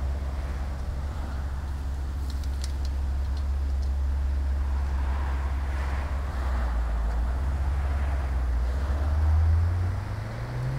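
Maserati 3200 GT Cambiocorsa's twin-turbo V8 running at low revs with a deep, steady note as the car rolls slowly past. Near the end the revs climb and the engine gets louder as it pulls away.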